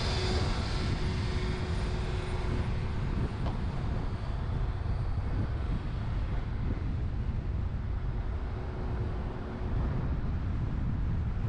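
Wind buffeting a roof-mounted GoPro on a moving truck, mixed with the truck's road noise: a steady, heavy rumble with a faint hum, dipping briefly near the end.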